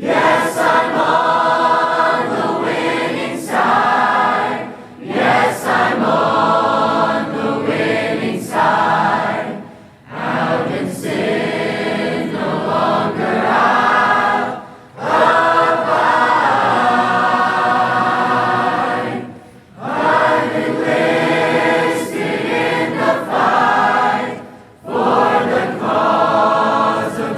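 A group of voices singing together in harmony, in long phrases broken by brief pauses every few seconds, with no instruments filling the gaps.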